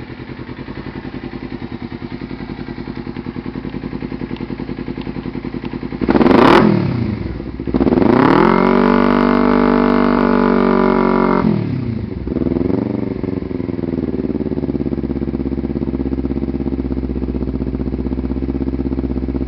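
Kawasaki Ninja 250R parallel-twin engine through an aftermarket HUNG exhaust, idling with an even pulse. About six seconds in it gives a quick throttle blip, then is held at higher revs for about four seconds. It drops back with one small blip and settles to idle.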